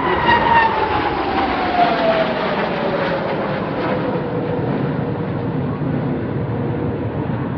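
Jet display aircraft flying past over a steady rushing roar. The engine whine falls in pitch over the first few seconds as they go by, then holds low.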